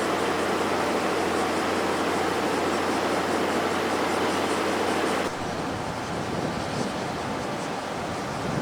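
Running noise of a locomotive-hauled passenger coach on the move: a steady rush and rumble of wheels on rail, with a steady hum underneath. About five seconds in, the noise drops suddenly and becomes duller and quieter.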